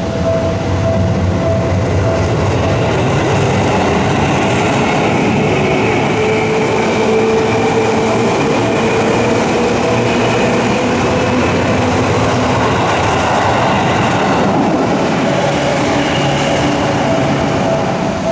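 Seibu Ikebukuro Line electric train running loudly over a level crossing, its rumble joined by a motor whine that slowly rises and falls in pitch. The crossing's warning bell rings at the start, is drowned out while the train passes, and is heard again near the end.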